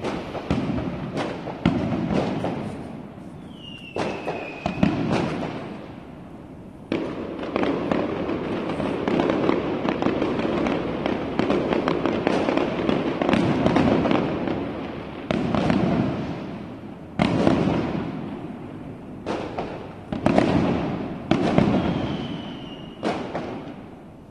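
Aerial fireworks display: a series of loud bangs from bursting shells, each dying away, with a dense stretch of continuous crackling in the middle.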